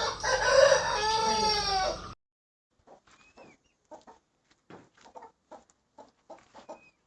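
Aseel chickens: a loud rooster crow with arching pitch cuts off suddenly about two seconds in. It is followed by soft, scattered short clucks.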